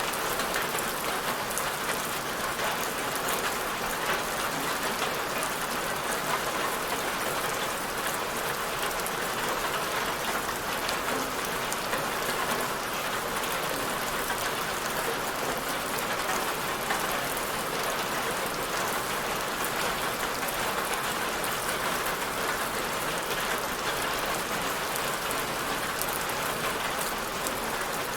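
Steady rain falling on a surface, a dense even hiss of many drops with fine ticks of individual drops through it.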